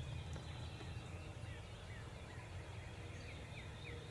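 A small bird repeating short, downward-slurred chirps about twice a second, starting about a second and a half in, faint over a low steady rumble.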